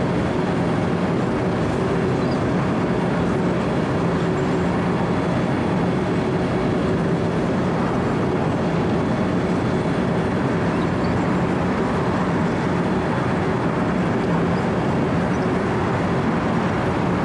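Wirtgen W 120 CFi cold milling machine running steadily under load: a steady diesel engine hum under the continuous grinding of the milling drum cutting asphalt.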